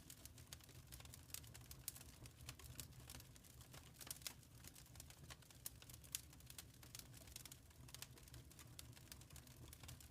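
Wood fire crackling in a fireplace: quiet, irregular pops and snaps over a low, steady rumble.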